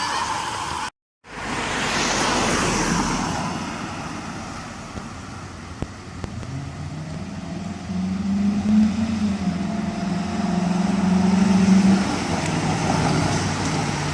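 City street traffic: a wailing siren cuts off abruptly about a second in, then steady road noise follows, with a heavy vehicle's engine droning low from about halfway through.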